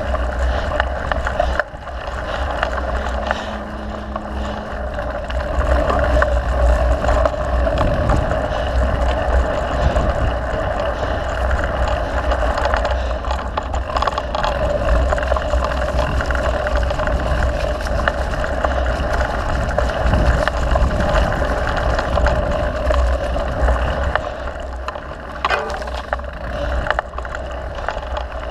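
Wind buffeting the microphone of a camera riding along on a mountain bike, with a constant deep rumble. Many short rattles and clicks come from the bike over rough trail.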